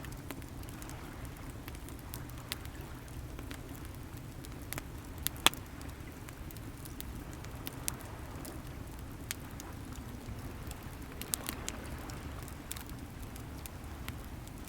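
Wood fire crackling with irregular sharp pops, one much louder pop about five seconds in, over a steady low rumble of sea waves, with a wave washing in around eleven seconds.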